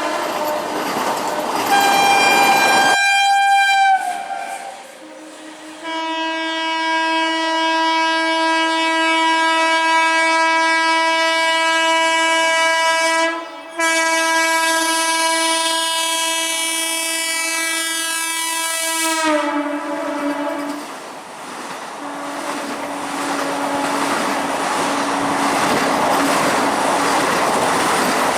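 Indian Railways train horn: short horn notes, then one long blast of about thirteen seconds with a brief break partway through, whose pitch drops as the train passes. Then the rush and wheel clatter of the passing train.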